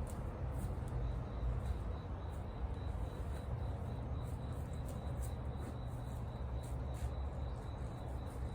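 Wood campfire crackling, with scattered sharp pops at irregular intervals over a low, steady rumble.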